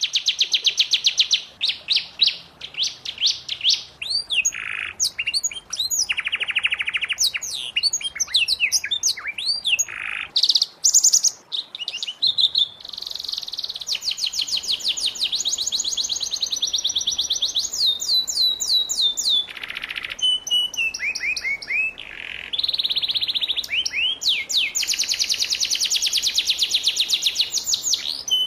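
Domestic canary singing a long, varied song of fast trills and rapidly repeated notes, phrase after phrase with brief gaps between them.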